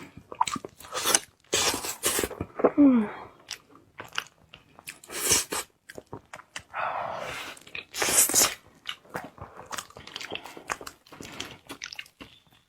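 Close-miked chewing of dry-pack durian flesh: irregular wet bites, smacks and mouth clicks, the flesh slightly crisp outside and soft and sticky inside.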